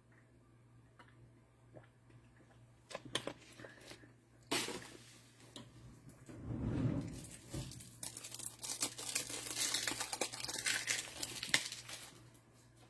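Plastic wrapping being torn and crinkled by hand in irregular bursts, starting about three seconds in and stopping shortly before the end, with a dull bump midway and a steady low hum underneath.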